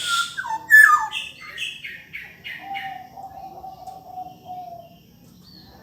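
Black-naped oriole singing: loud fluty whistles sliding down in pitch at the start, then a run of short repeated notes at about two a second, with a long steady lower whistle in the middle.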